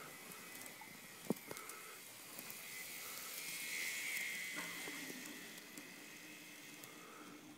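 Small electric motor of a motorized N-scale 119 series model train, a two-car set on its first test run, whining steadily with a hiss of wheels on track, getting louder toward a peak about four seconds in and then fading as it passes. Light clicks of the wheels over the rail joints, one sharper click about a second in.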